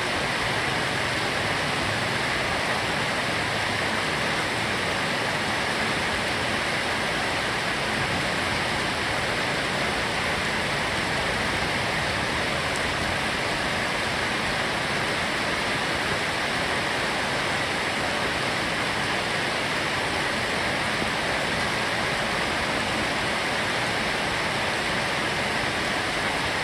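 Heavy rain pouring steadily, an even hiss with no changes.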